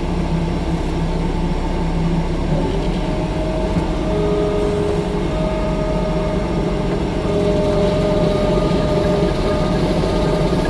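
A tracked skid steer (compact track loader) running steadily. It gives a low diesel rumble, with steady whining tones above it that shift a little in pitch.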